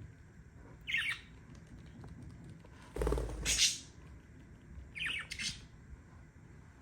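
Budgerigar giving three short, harsh squawks, about a second in, around three seconds and around five seconds. The middle squawk is the loudest and comes with a low thump.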